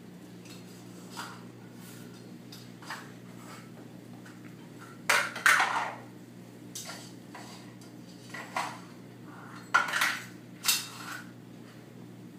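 Hard objects clattering and clinking in a few short bursts, loudest about five and ten seconds in, over a steady low hum.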